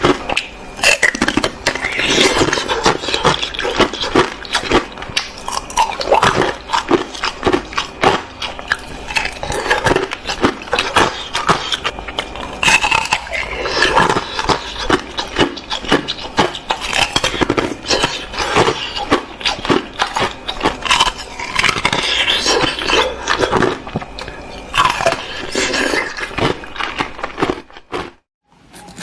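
Close-miked biting and chewing of frozen ice with juice frozen inside it: a continuous run of sharp cracks and crunches. A brief silence falls near the end.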